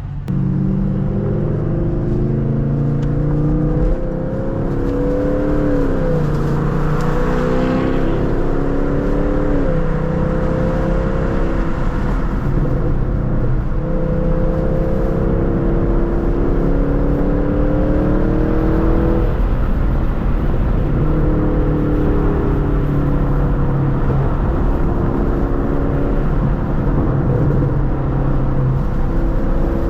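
2023 Chevrolet Camaro SS's 6.2-litre V8 with muffler and secondary catalytic converters deleted, pulling under acceleration. The engine note climbs and then drops sharply at each upshift of the 10-speed automatic, several times over.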